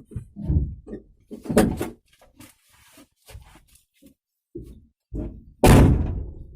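A string of knocks and thumps, the loudest a heavy slam near the end that rings on briefly.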